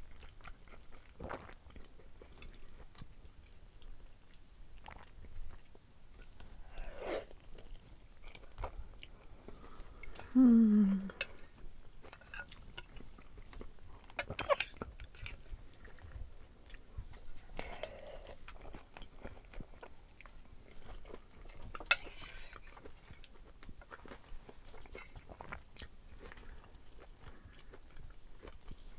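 Close-up eating sounds of black bean noodles with ground meat and vegetables: chewing and small wet mouth clicks, with spoon and fork tapping and scraping a ceramic bowl. A brief hum falling in pitch stands out about ten seconds in, and a sharp click comes about twenty-two seconds in.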